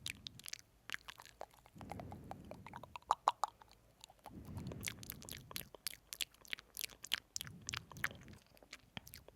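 Close-miked wet mouth sounds: rapid sticky lip smacks and tongue clicks over glossy lip oil. About every three seconds a soft low rush lasting about a second rises under them.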